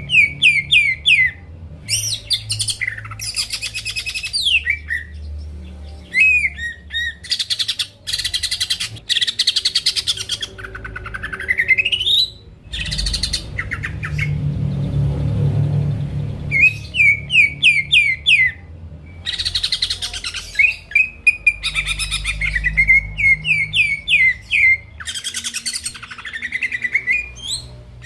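Cucak ijo (green leafbird) singing in varied, loud phrases: runs of quick falling notes, dense rapid trills and a long rising whistle about twelve seconds in, with short pauses between phrases.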